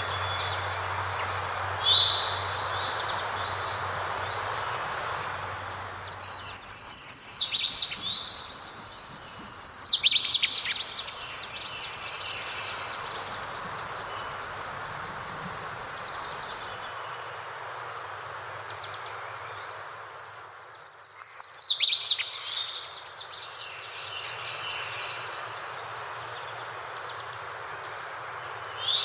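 A songbird singing loud, fast trilled songs three times, each about two seconds long, with fainter chirps between, over the steady rush of running water.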